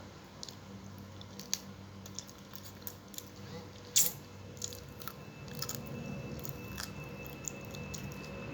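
A person chewing food close to the microphone, with scattered short wet mouth clicks and one sharper click about four seconds in. From about five and a half seconds a faint steady hum with a thin high whine comes in under the chewing.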